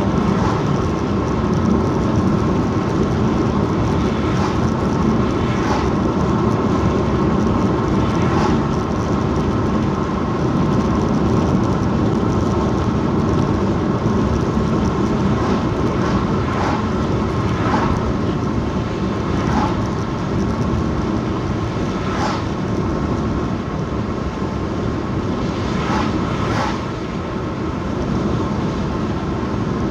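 Steady road and engine noise from inside a moving car, with a few faint brief knocks now and then.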